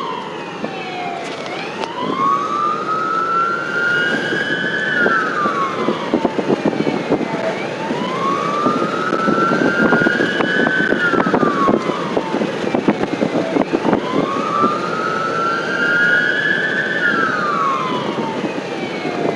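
Emergency vehicle siren on a slow wail, rising and falling about every six seconds, three full cycles, over the steady rumble and rattle of the moving vehicle.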